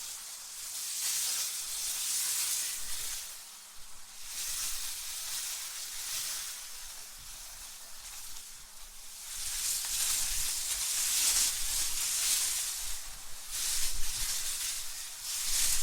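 Wind blowing in gusts, a high hiss that swells and fades every few seconds, with a low rumble under the strongest gusts.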